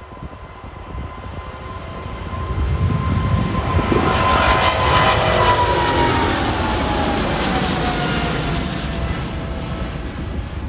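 Boeing 777-200 airliner's jet engines at high power going past. The noise swells to a peak a few seconds in and then slowly eases, with a whine that slides down in pitch as the plane passes.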